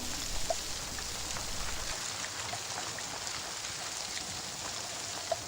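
Steady rain falling: an even hiss with scattered small drips.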